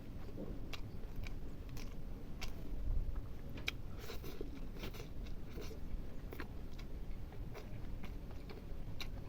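A person chewing food close to the microphone, with irregular crisp crunching clicks as they bite and chew.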